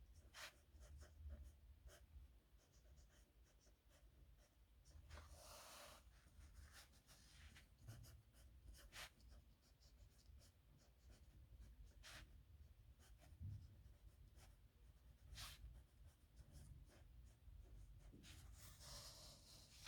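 Faint scratching of a nib pen on paper: many short ticks from quick strokes, with a couple of longer scratchy strokes.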